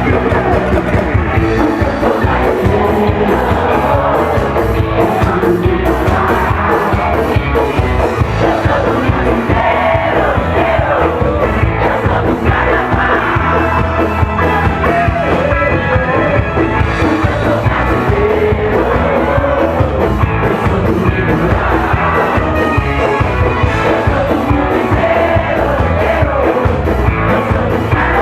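Loud live carnival band music with a driving drum beat and a singer.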